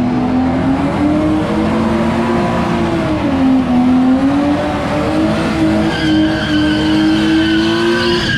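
A car engine held at high revs, its pitch wavering up and down, while the tires spin and screech. A higher squeal joins in about six seconds in.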